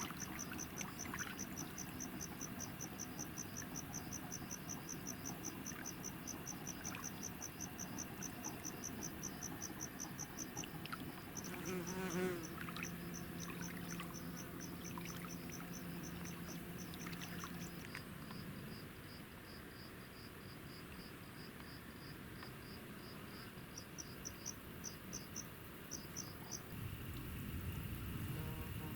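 Crickets chirping in a steady, fast run of high pulses, about five a second; later a second, lower-pitched chirper takes over. A faint low hum joins for several seconds in the middle.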